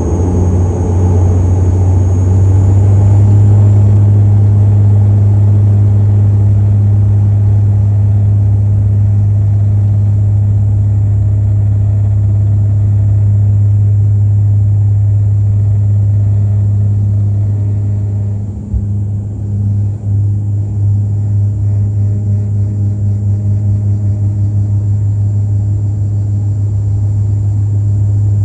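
Dash 8-Q400 turboprop's two Pratt & Whitney PW150A engines and six-bladed propellers at takeoff power: a loud, steady low propeller drone with a thin high turbine whine. About two-thirds of the way through there is a brief dip and a single knock, and after that the drone pulses with a steady beat.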